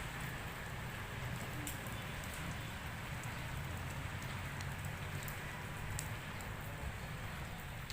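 Steady rain falling, easing off from a heavy downpour, with scattered drops ticking sharply and a low rumble underneath.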